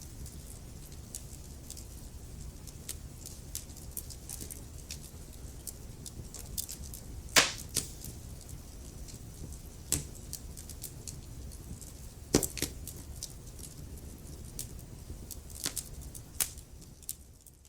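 Wood fire crackling in a fireplace: a steady low rumble of flames with irregular sharp pops and snaps, a few louder pops standing out about seven, ten and twelve seconds in. The sound fades out at the very end.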